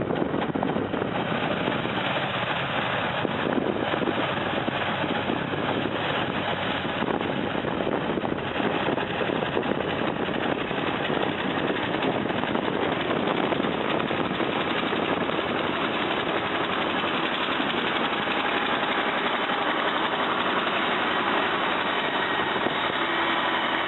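Engine of a heavy snow-removal machine running steadily.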